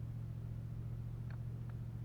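Steady low hum of an idling vehicle engine, with two faint short high chirps a bit past one second in.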